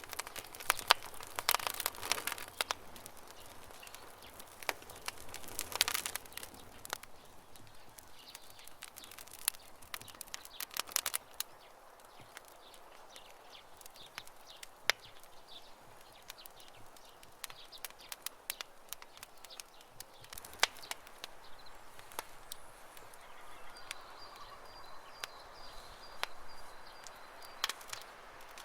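Campfire crackling with scattered sharp pops, thickest in the first few seconds, over a soft steady hiss, while birds chirp faintly in the background.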